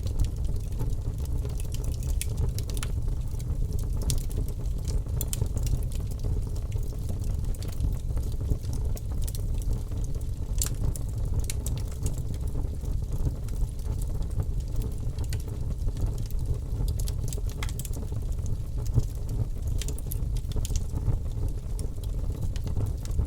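Logs burning in a wood fireplace: a steady low rumble of the fire with irregular sharp crackles and pops, one louder pop a few seconds before the end.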